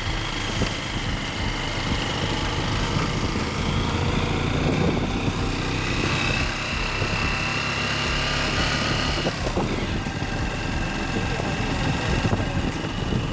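Honda Shine 125's single-cylinder four-stroke engine running steadily while the motorcycle is ridden, heard from on the bike.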